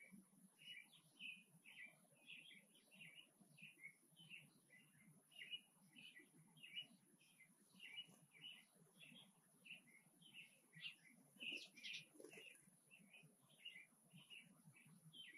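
Small birds chirping faintly, short chirps repeating about three times a second without a pause.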